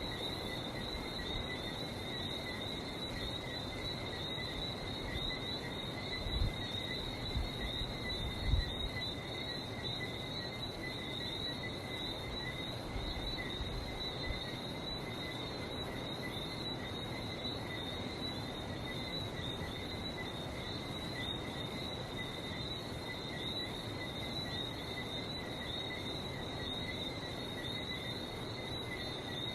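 Night chorus of Barbados whistling frogs with insects: a dense, steady mass of fast high chirps over an even background hiss. A few low thumps come about six to nine seconds in.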